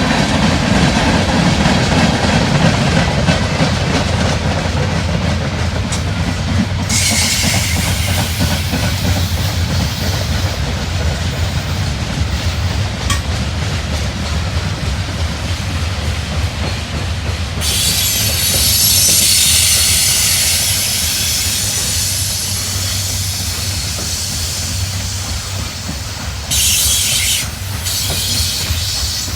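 A train's cars rolling past with a steady low rumble and clickety-clack of wheels over the rails. High-pitched wheel squeal sets in about a quarter of the way through and again past the middle.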